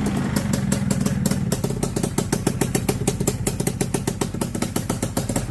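Honda FL250 Odyssey's single-cylinder two-stroke engine running on a cold start, with an even, rapid beat that quickens about a second and a half in.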